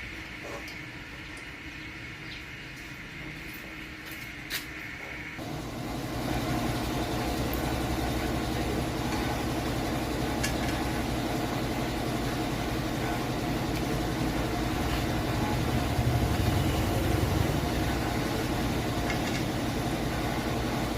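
A few light clicks and one sharp click about four and a half seconds in, then an engine running steadily, coming in suddenly about five seconds in.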